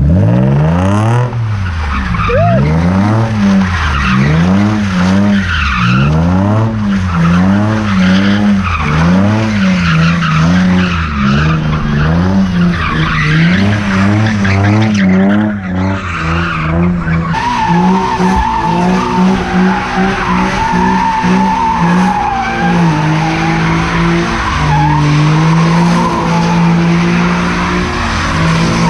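A drift car's engine revving up and down over and over, about once a second, with tires screeching. About two-thirds of the way through, the engine settles to a steadier note under a long, sustained tire squeal.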